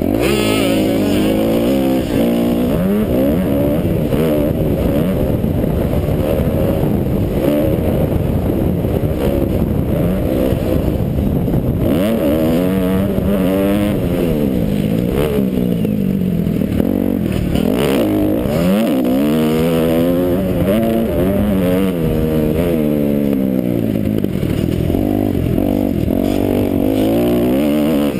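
Kawasaki KX250F four-stroke single-cylinder motocross engine revving hard under racing throttle, heard from a helmet camera. Its pitch climbs and drops again and again as the throttle is opened and shut and the rider shifts.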